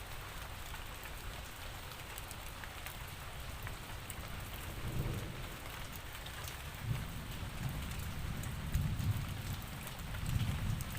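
Steady rain falling, with the fine patter of individual drops. Low rumbles of thunder swell up about halfway through and again near the end.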